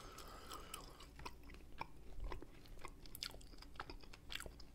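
Close-miked chewing of sauced pork ribs: irregular wet mouth clicks and smacks.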